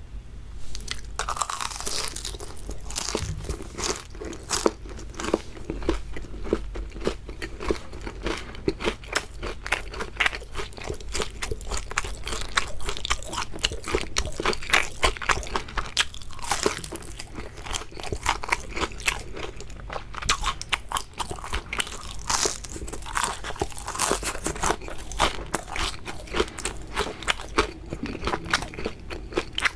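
Close-miked biting and chewing of crispy fried shrimp: a dense run of crackling crunches, with brief lulls between bites.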